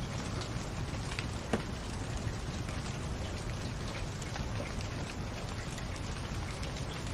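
Wood fire crackling in a fireplace: a steady hiss with scattered small pops, one louder pop about a second and a half in.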